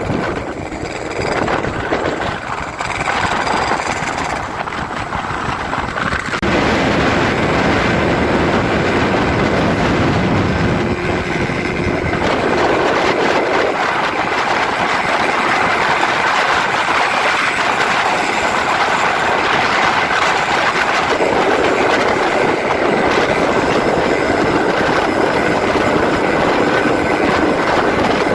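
Motorcycle engine running loud through a gutted ('bobokan') exhaust muffler during an exhaust sound test. It gets louder about six seconds in and then holds steady, with shifts in tone along the way.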